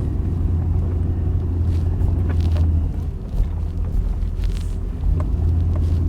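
Pickup truck driving: a steady low engine and road rumble, with a few faint clicks and rattles.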